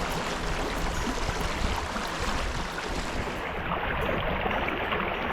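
Creek water rushing steadily. About three seconds in, the sound turns muffled as its high end drops away.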